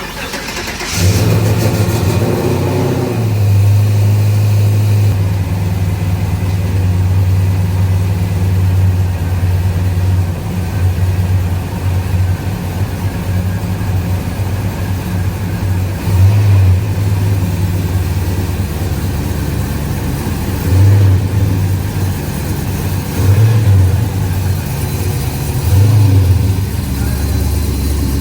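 Car engine starting about a second in, then running at a steady idle with several short revs.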